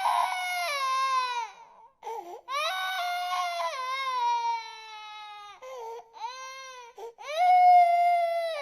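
Infant crying: four long wailing cries, each sliding down in pitch, with short breaks for breath between them; the last cry is the loudest.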